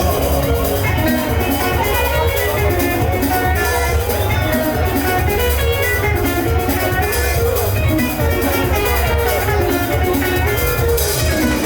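Live band music without singing: quick runs of plucked guitar notes over a bass line and a steady drum-kit beat.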